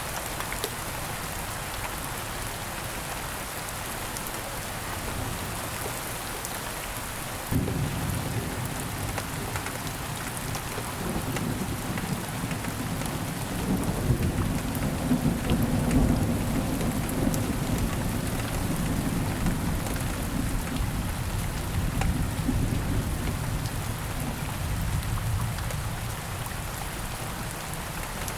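Steady rain falling, with a roll of thunder that breaks in suddenly about a quarter of the way in, builds to its loudest around the middle and rumbles away toward the end.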